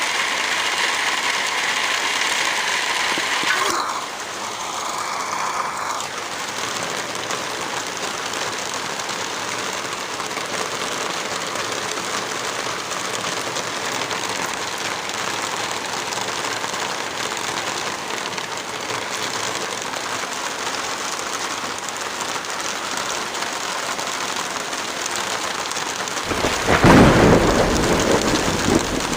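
Heavy rain falling steadily, its sound shifting in texture about four seconds in. Near the end, a loud, deep rumble lasting about three seconds rises over the rain.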